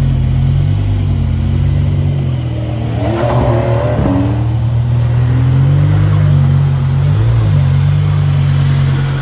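Sports car exhausts rumbling low and loud as cars pull away, with an engine revving up and dropping back about three seconds in.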